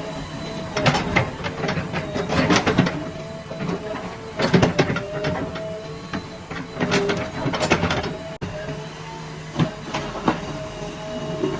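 JCB 3DX Plus backhoe loader's diesel engine running under load with a steady hydraulic whine, broken by bursts of clanking and scraping as the bucket digs, about five times.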